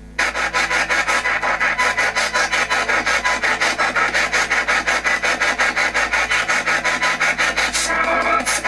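SBox spirit box sweeping through radio stations: choppy static hiss that pulses several times a second, switched on abruptly just after the start.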